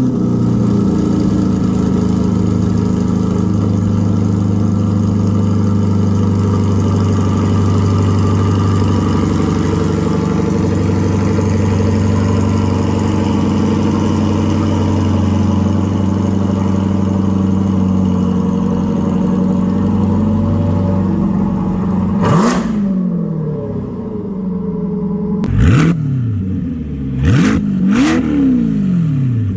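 C8 Corvette V8 through a center-exit track exhaust, held at a steady raised engine speed for about twenty seconds. It then drops back and is blipped several times in quick succession, each rev rising and falling sharply.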